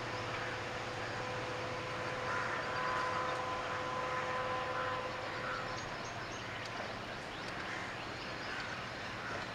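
Distant train running away over the bridge, a steady rumble with a few held tones that stop about five and a half seconds in, the level easing a little after that. Birds chirp now and then.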